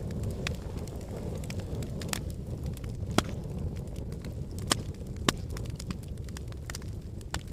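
Wood fire burning in a fireplace: a steady low rumble of flames with scattered sharp crackles and pops, three of them standing out near the middle.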